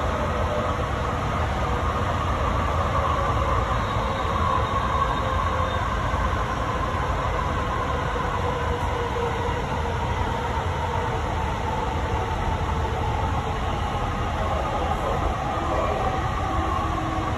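JFK AirTrain car running along its guideway, heard from inside: a steady rumble with a whine that slowly falls in pitch.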